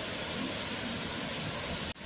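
Waterfall: a steady, even rush of falling water, broken by a split-second dropout near the end.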